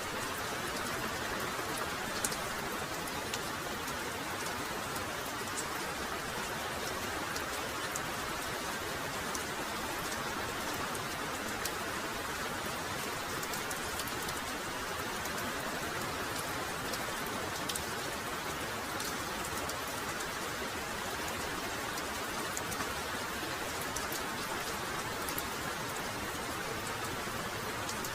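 Heavy, steady rainfall: a continuous hiss of rain with many fine, sharp drop ticks.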